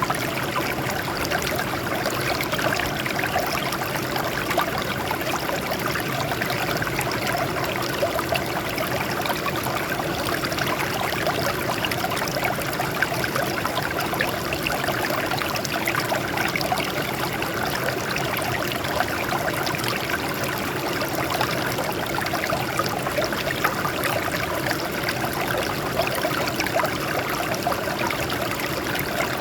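Water flowing and trickling over rocks in a steady, even splashing stream.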